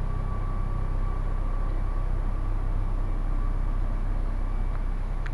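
Helicopter in flight, a steady drone.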